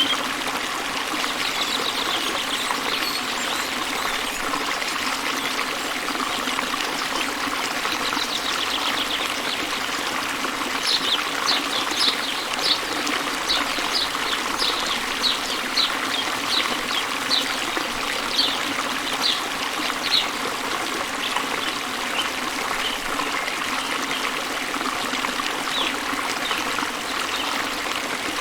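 Small waterfall and river running steadily, with birds singing over it: brief high trills, then a run of short high chirps at about two a second through the middle.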